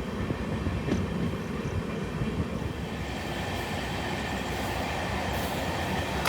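Steady running noise of a passenger train heard from inside a sleeper coach, with a low rumble and a few faint clicks as the train picks up speed after leaving a station.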